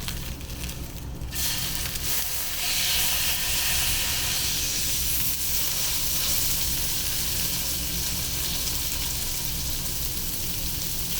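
Salmon frying and sizzling, the sizzle building about a second in and louder from about two and a half seconds, over a steady low hum.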